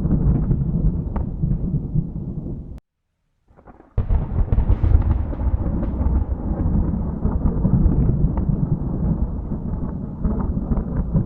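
Thunder rumbling, deep and rolling with scattered crackles. It cuts out abruptly to silence about three seconds in, then a fresh sharp thunderclap breaks in about a second later and rolls on into a long, heavy rumble.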